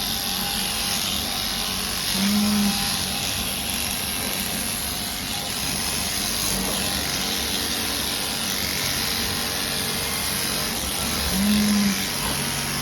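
Electric sheep shears running steadily while a sheep's tail is dagged out, a continuous motor buzz. Two short low tones rise briefly above it, a couple of seconds in and near the end.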